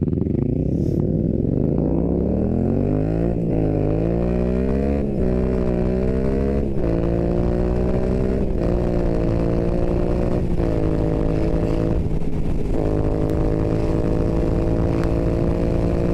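Yamaha MT-07's parallel-twin engine through an Akrapovič exhaust, accelerating hard and upshifting through the gears: the engine note climbs, drops at each shift about every two seconds, five or six times, then rises only slowly in the top gears.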